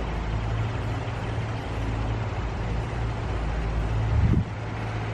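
An engine running steadily with a low hum, with a brief louder low surge about four seconds in that cuts off abruptly.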